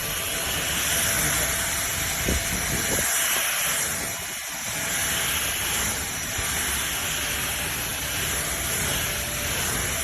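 SMOTURE 600 W cordless stick vacuum running with a steady high airy hiss, with a couple of light knocks about two to three seconds in.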